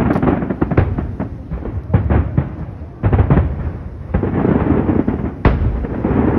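Aerial fireworks shells bursting in quick succession in a large display: a dense run of bangs and crackles over a steady deep rumble. The louder clusters come near the start, about two seconds in and just after three seconds, and a single sharp bang falls about five and a half seconds in.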